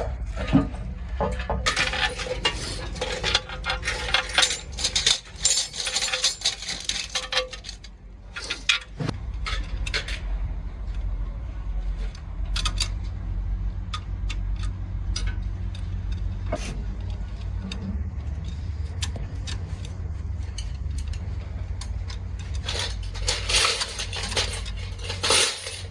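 Metal tools and engine parts clinking and clattering, with a dense run of clatter in the first several seconds and scattered single clinks after, over a steady low hum.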